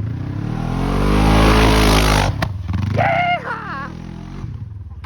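Side-by-side UTV engine revs up hard under throttle, rising in pitch for about two seconds, then cuts off abruptly and settles to a low idle. A short yell cuts in about three seconds in.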